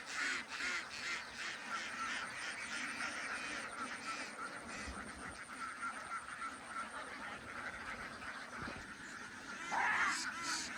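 A flock of ducks quacking, many short calls overlapping without a break, with a louder burst of quacks near the end.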